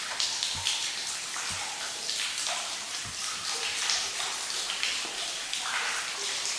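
Spirit box (radio sweep device) hissing static through its speaker, choppy and changing every fraction of a second, with brief snatches of tones. A few soft low thumps come through underneath.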